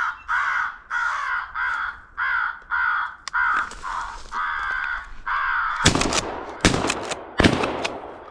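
Crow caws repeating rapidly and evenly, about two a second, then three shotgun blasts in quick succession about six seconds in: a volley fired at crows drawn in by the calling.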